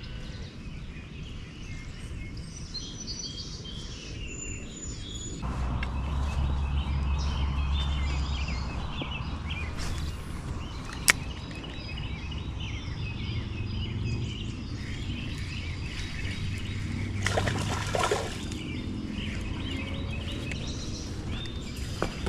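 Birds chirping over steady outdoor background noise. A low rumble comes in about five seconds in, and there is a single sharp click near the middle.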